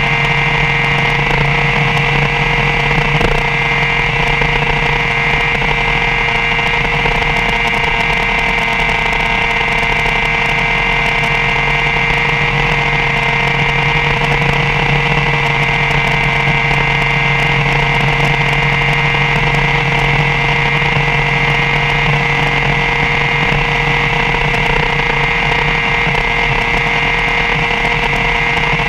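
BMW S1000RR inline-four engine held at a steady high rpm in sixth gear at 186 mph, the bike's speed limit, with wind rush over the bike.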